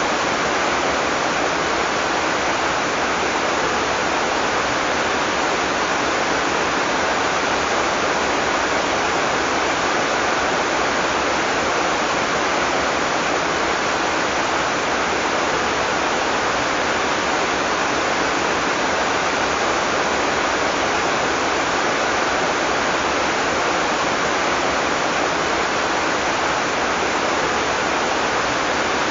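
Heavy tropical rain falling steadily in a dense, even downpour with no thunder.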